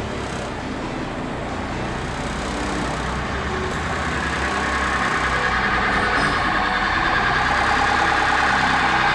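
Honda Integra Type R's K20A four-cylinder engine and road noise while driving, growing steadily louder over the second half.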